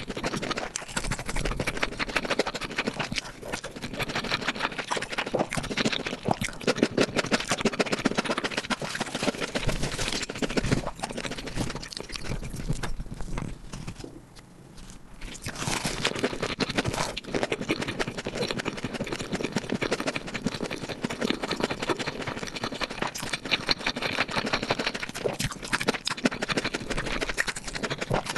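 Close-miked chewing and mouth sounds of someone eating spicy stir-fried pork with rice: a dense run of wet clicks and smacks, dropping off briefly about halfway through before picking up again.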